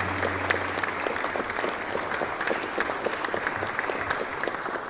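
Large audience applauding as the guests of honour are welcomed, the clapping tapering off near the end.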